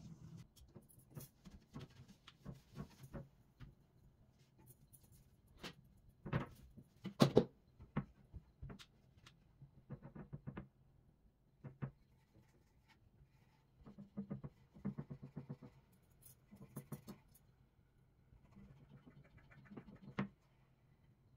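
Scattered light knocks, clicks and rustles of household objects being handled and set down, loudest about seven seconds in.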